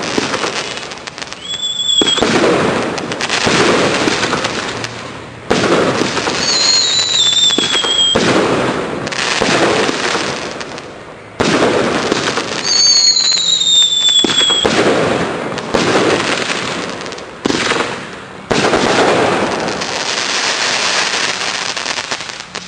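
15-shot consumer fireworks cake firing: a sudden bang every few seconds, each followed by a long crackling fizz, with a whistling tone that glides down in pitch twice.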